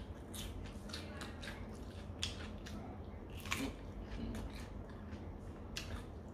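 Close-miked chewing of raw cucumber: a string of short, crisp crunches at an uneven pace.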